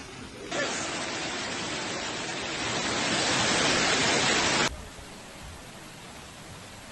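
Loud rushing water, as of floodwater pouring through a street, that starts abruptly about half a second in and stops abruptly after about four seconds, over a fainter steady hiss before and after.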